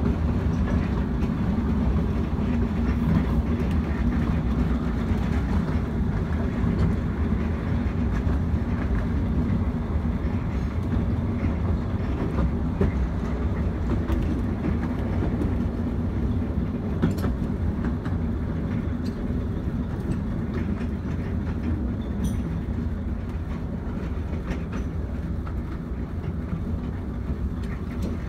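Carriage of the 15-inch-gauge Ravenglass & Eskdale Railway running along the line, heard from on board: a steady rumble of wheels on the track, with a few sharp clicks.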